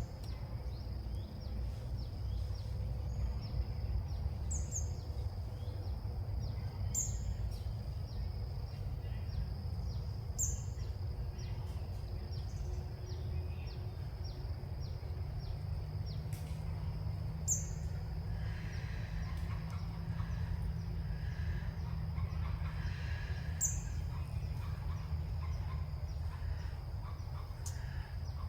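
Birds calling outdoors: short high chirps every few seconds, with a busier patch of calls in the second half. Under them run a steady high-pitched insect drone and a low wind rumble.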